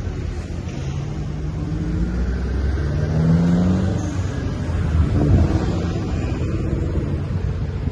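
Road traffic: a motor vehicle's engine rising in pitch as it accelerates, over a steady low rumble, with the loudest moment a little past halfway as it passes.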